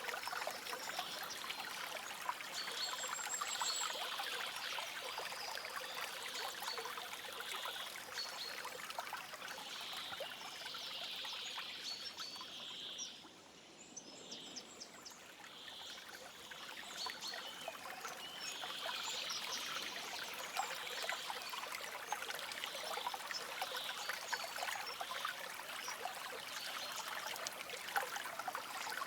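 Shallow stream trickling and babbling over stones, with faint bird chirps. It dips quieter for a couple of seconds about halfway through, then comes back up.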